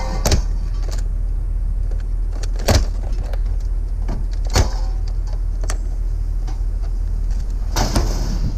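Vehicle running with a steady low rumble, with a few sharp clicks and rattles on top.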